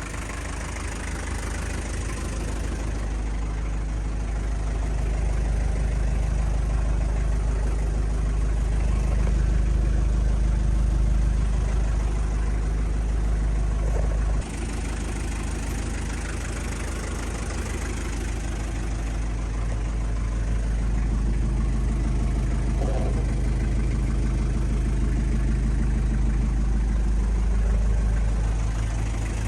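Mazda R2 four-cylinder diesel engine idling steadily, with a short break about halfway.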